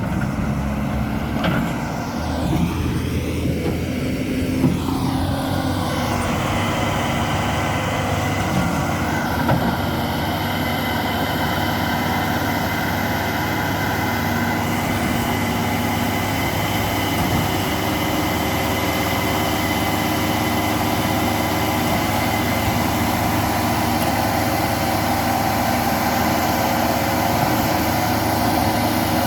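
Diesel engine of a Kawasaki 80 wheel loader running steadily on a test run after its turbocharger was repaired, with a steady high whine over the engine note.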